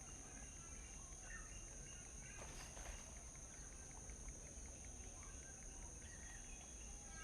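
Small birds giving scattered short chirps and calls, faint, over a steady high-pitched insect drone, with a brief rustle about two and a half seconds in.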